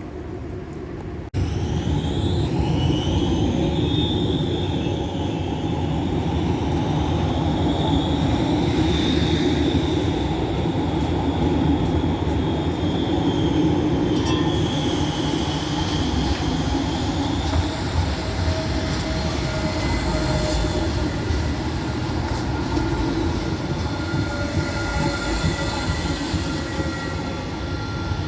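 A tram runs on its rails with a steady low rumble, and its wheels squeal in high, wavering tones through much of the passage. The sound comes in suddenly about a second in.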